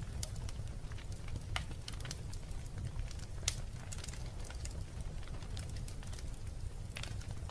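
Wood fire burning in a fireplace: a steady low rumble with scattered sharp crackles and pops, one louder pop about halfway through.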